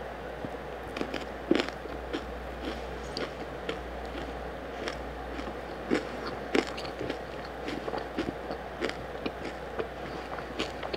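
Close-miked chewing of a mouthful of pork rib and feijão tropeiro: irregular small wet clicks and crunches, over a steady hiss of heavy rain.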